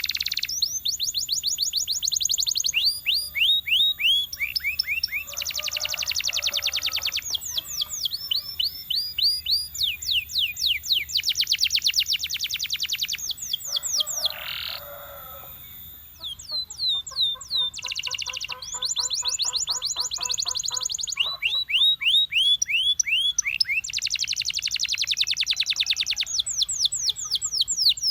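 Belgian canary singing a continuous song of rapid trills: runs of quick, high, downward-sweeping notes that change speed every few seconds. A brief lull comes about halfway, followed by a lower rolling passage.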